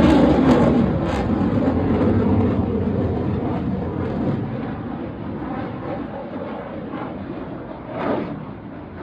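Airplane engine noise, loudest at first and fading steadily as the aircraft moves away, with a brief louder burst near the end.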